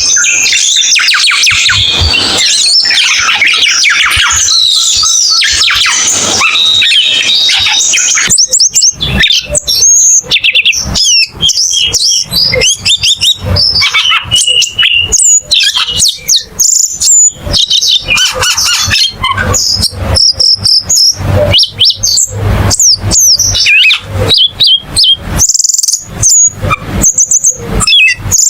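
Cucak keling songbird singing, a fast string of varied high chirps, trills and short whistles. For about the first eight seconds the notes run together densely. After that they come as separate quick phrases with brief gaps.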